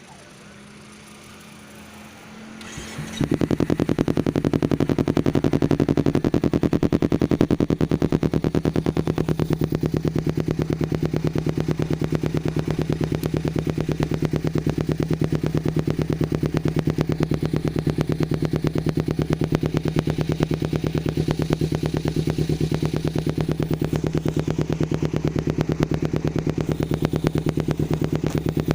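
Kawasaki Ninja 250 Fi parallel-twin engine through an aftermarket M4 exhaust, coming in loud about three seconds in and then idling steadily without revving.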